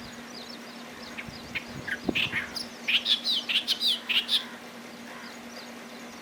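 Clamorous reed warbler singing: a burst of quick chattering notes from about a second in until past four seconds, loudest near the middle. A steady low hum runs underneath.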